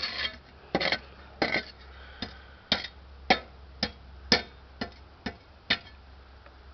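A series of sharp knocks, about a dozen, roughly two a second and slightly irregular, over a faint low hum.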